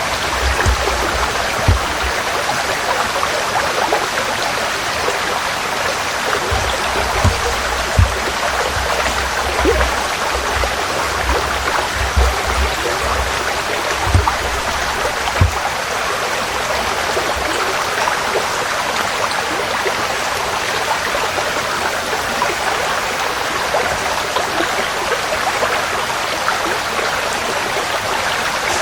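A forest stream flowing over stones, a steady rushing and babbling of water. Brief low thumps come and go through the first half.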